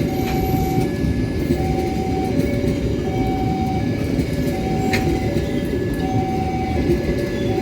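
Train rolling past with a steady low rumble and an occasional wheel clack. Over it an electronic two-tone warning signal alternates between a higher and a lower note about every three-quarters of a second.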